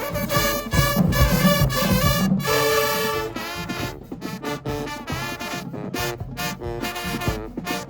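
High school marching band playing: a brass section over drums. Full, sustained playing for about the first three seconds, then quieter, with short punched chords and drum hits.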